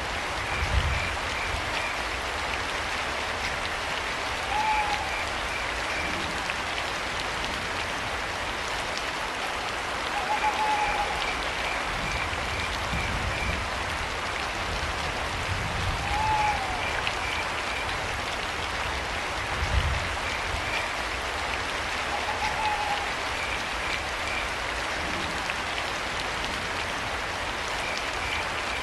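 Steady rain falling, with crickets chirping in short pulsed trills and an owl giving a single short hoot about every six seconds, four times. A few soft low thuds come through under the rain.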